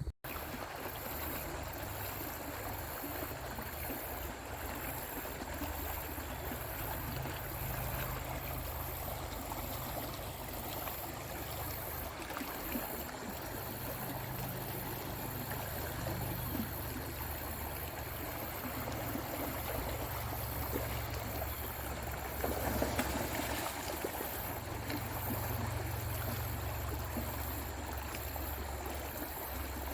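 Steady rushing of a flowing creek, with no breaks.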